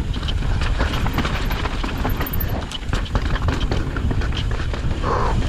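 Mountain bike descending dry, loose, rocky trail: tyres crunching and skittering over dirt and rock and the bike rattling continuously, over a steady low rumble of wind on the microphone.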